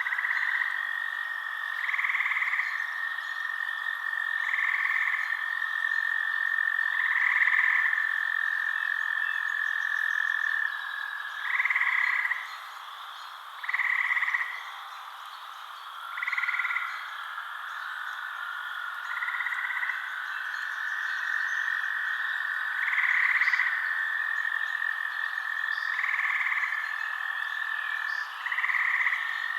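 Night frog chorus: short croaking calls come about every two to three seconds over a steady high trill.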